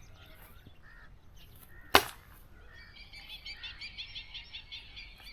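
A single sharp rifle shot about two seconds in, followed from about three seconds by a fast run of high bird chirps, several a second.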